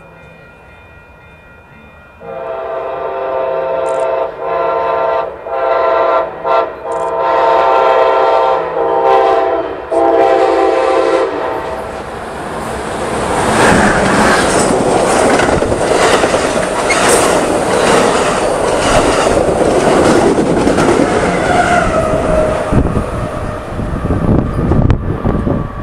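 A passenger train's multi-tone air horn sounds in a series of blasts as the train approaches. About halfway through, the horn gives way to the loud rush and wheel clatter of the train passing close by the platform.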